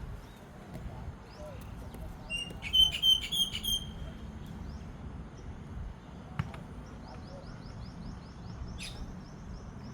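Birds chirping: a loud run of sharp, high chirps about two to four seconds in, then fainter quick repeated chirps near the end, over a steady low outdoor rumble.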